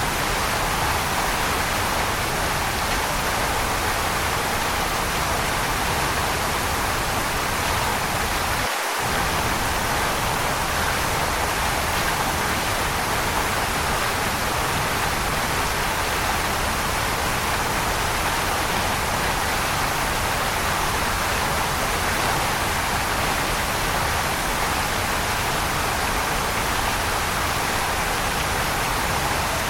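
Waterfall rushing in a steady, unbroken hiss. The deep rumble briefly drops out about nine seconds in.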